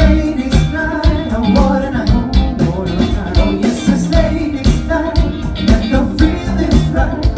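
A band playing with a steady beat, drums, bass and guitar, and a voice singing.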